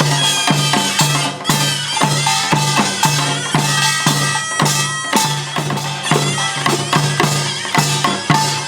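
Korean pungmul band playing: drums and gongs strike a steady, fast beat, about three strokes a second, while a loud, nasal double-reed shawm (taepyeongso) plays a wavering melody over them.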